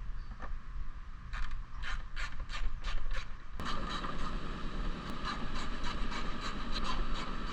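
Ratchet wrench clicking while plastic 10 mm nuts are run down onto threaded studs, a few clicks a second. About three and a half seconds in it turns into a denser, steady mechanical clatter.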